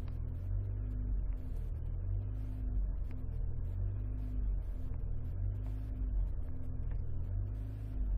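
Alfa Romeo 156 engine and road drone heard from inside the cabin: a steady low hum, with a faint tone above it that swells and fades in a repeating pattern, a little more than once a second.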